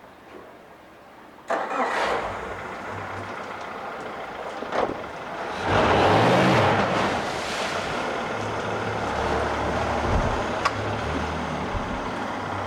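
Yamaha F115 four-cylinder four-stroke outboard engine starting about a second and a half in, rising in pitch briefly around the middle, then running steadily.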